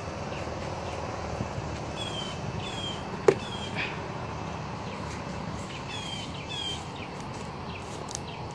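Outdoor backyard ambience with a bird giving short, falling high chirps, mostly in pairs, a few times. A single sharp click comes about three seconds in.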